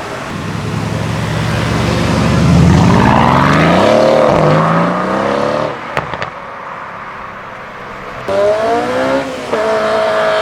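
Modified car engine accelerating hard, its pitch climbing steadily, dipping briefly about four seconds in, then climbing again before falling away. About eight seconds in, another car's engine revs up loudly.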